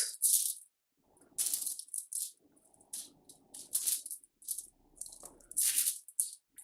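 Chicken drumsticks being turned over on a foil-lined baking tray: about ten short, irregular scrapes and rattles of the pieces and tools against the foil and tray.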